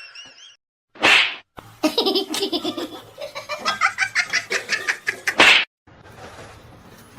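Laughter in rapid repeated bursts, preceded by a short sharp burst of noise about a second in and ending in another. It cuts off abruptly to a quieter background.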